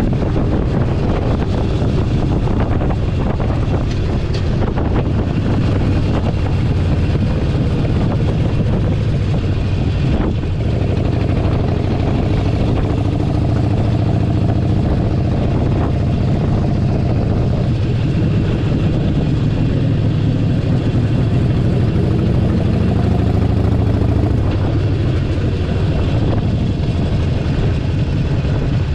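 Harley-Davidson Forty-Eight Sportster 1200's air-cooled V-twin engine running steadily under way.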